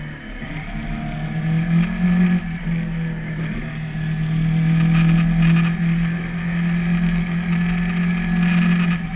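Sport motorcycle engine running at a steady cruising speed, heard on board the bike, with a steady engine note that rises briefly about two seconds in.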